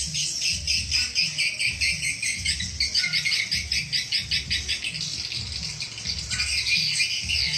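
Swiftlet lure call track: rapid high twittering chirps of swiftlets, several a second, over a low pulsing beat about twice a second. This is the kind of call sound played in swiftlet houses to attract the birds.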